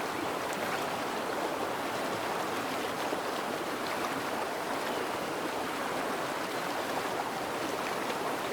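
Rushing water of a forest creek, a steady even rush with no let-up.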